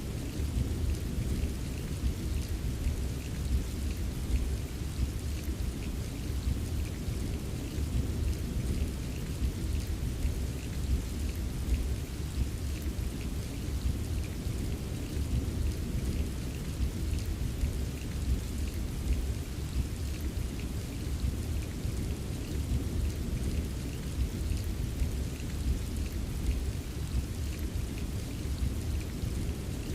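Steady rain with a continuous low rumble of distant thunder underneath and fine drops tapping throughout; no single sharp thunderclap.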